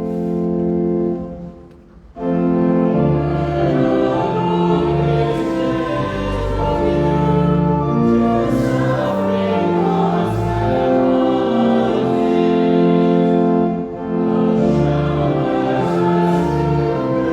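Congregation or choir singing a hymn with organ accompaniment. A held chord dies away about a second in, and after a short break the music starts again about two seconds in and goes on with changing chords.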